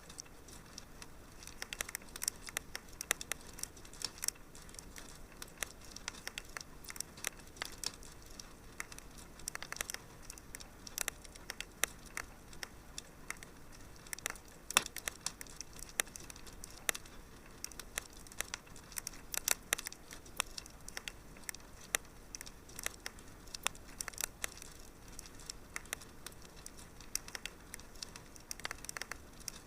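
Wood fire crackling in a fireplace: irregular sharp pops and snaps, several a second, over a soft steady hiss, with an occasional louder pop.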